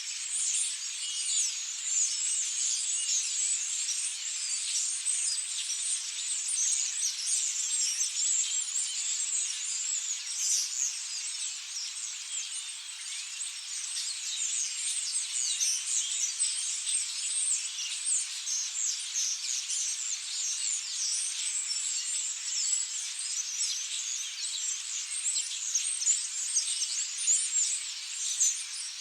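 Dense chatter of a large flock of European starlings: many overlapping high chirps, squeaks and whistles with no let-up.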